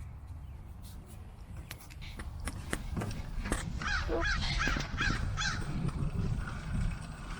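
A bird gives a quick series of about five harsh calls, starting about halfway through, over a steady low rumble.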